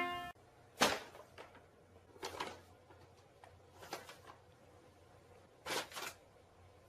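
A few short, sudden knocks in a quiet small room, four in all, the loudest about a second in. Music cuts off just before the first.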